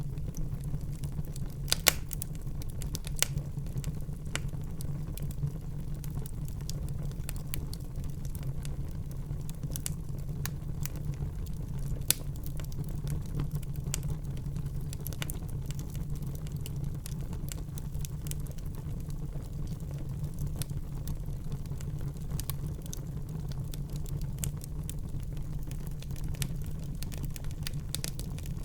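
Wood fire burning in a fireplace: a steady low rumble of flames with frequent crackles and sharp pops, a few louder snaps about two, three and twelve seconds in.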